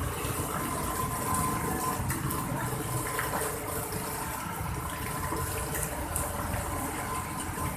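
Heavy rain pouring down: a steady rush of falling and running water.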